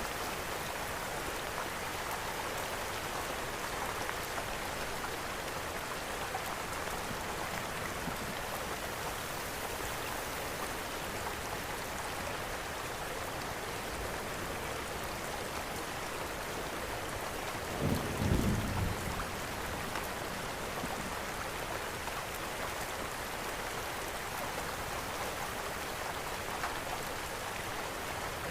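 Steady rain falling, mixed with a fireplace, with a brief low rumble about two-thirds of the way through.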